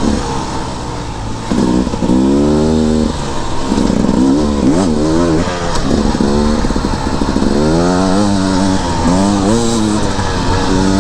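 Beta 300RR two-stroke dirt bike engine revving up and dropping back again and again as it is ridden on trail, its pitch climbing and falling several times.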